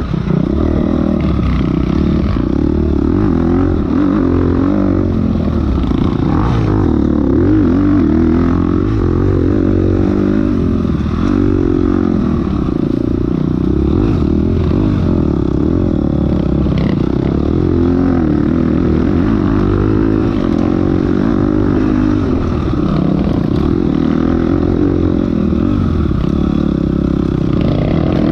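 Enduro dirt bike engine running hard, its revs rising and falling constantly with the throttle.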